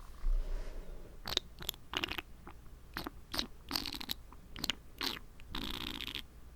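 Close-up wet mouth sounds: a run of sharp clicks and smacks of the tongue and lips, with a longer wet swish near the end.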